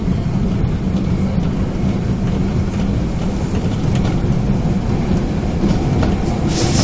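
Osaka Municipal Subway 22 series train running, a steady low rumble of wheels on rail with a few faint clicks.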